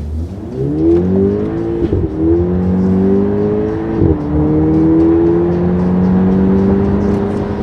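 Audi A3 with a Milltek resonated turboback exhaust accelerating hard, its exhaust note rising in pitch, broken by two quick upshifts about two and four seconds in, then climbing slowly through the next gear.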